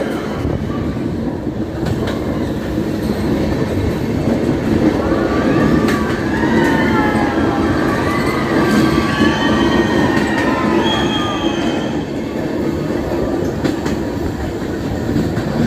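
A passenger train running on the rails with a steady rumble, with high wavering wheel squeal from about five to eleven seconds in.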